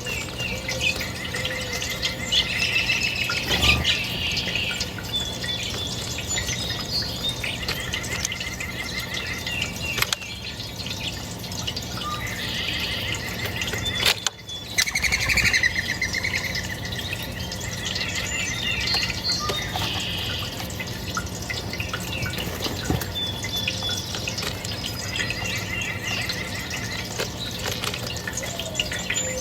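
Wild birds chirping and singing, with short rapid trills repeated every few seconds.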